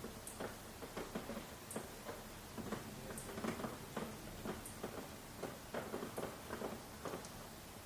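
Rain pattering and dripping in irregular close taps over a light hiss, with a faint high tick about every second and a half.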